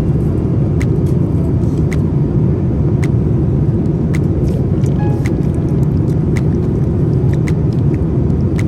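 Steady low rumble of cabin noise inside a Boeing 787-9 Dreamliner at cruise, with scattered light clicks over it.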